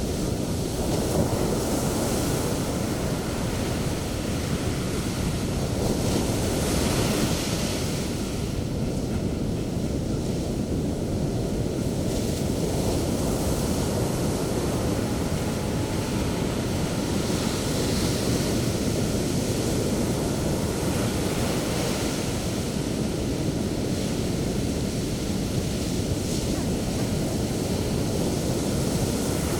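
Sea waves breaking on the shore in continuous surf, with louder breakers swelling in every several seconds over the steady wash.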